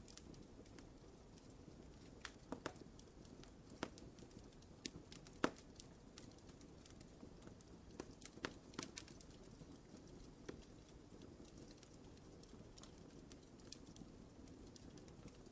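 Wood fire burning in a fireplace: faint, irregular crackles and pops over a low rumble, with louder pops bunched in the first half.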